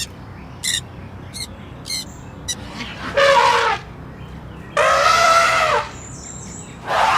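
A bird calling: a few short high chirps, then three loud drawn-out calls of up to about a second each.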